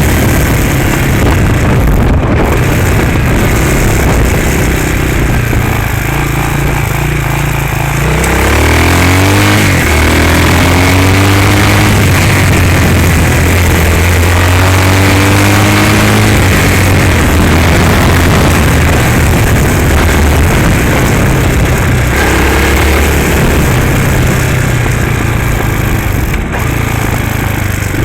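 Hawk 250cc dirt bike's single-cylinder four-stroke engine running. Its pitch sweeps as the revs change about eight to ten seconds in, then holds fairly steady.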